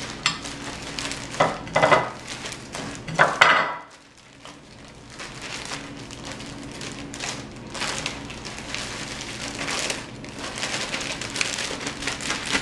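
Zip-top plastic bag of pecan meal, flour, salt and pepper being shaken to mix, giving an irregular crinkling rustle in bursts, loudest in the first few seconds.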